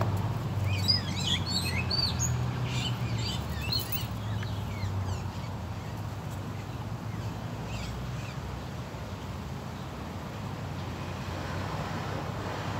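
A bird chirping in a quick run of short, high notes during the first few seconds, then only a few faint chirps, over a steady low hum.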